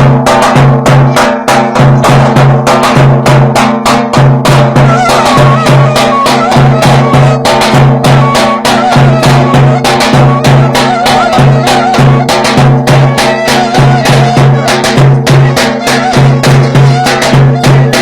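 Traditional Turkish folk dance tune (oyun havası) from a village wedding: a drum beats a quick, steady rhythm under a wavering melody line.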